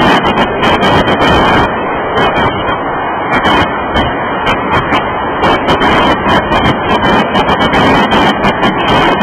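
Freight cars of a Union Pacific manifest train rolling past close by: a loud, steady rumble and clatter of steel wheels on the rails, with irregular crackle throughout.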